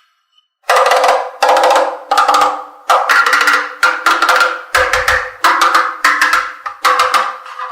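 A rhythmic series of sharp percussive strokes, about one and a half a second, each one quickly fading, starting just under a second in.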